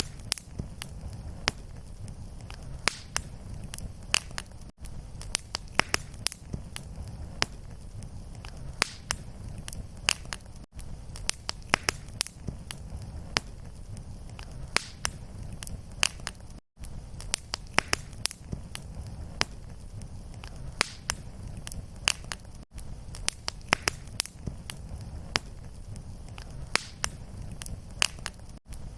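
Fireplace fire crackling and popping constantly over a steady low rumble of flame. A very short dropout comes about every six seconds, where the looped recording repeats.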